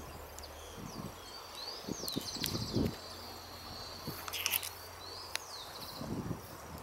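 A small songbird sings two short phrases, each a sweeping whistle followed by a quick trill, against quiet open-air background. A few brief low thumps of wind or handling hit the microphone.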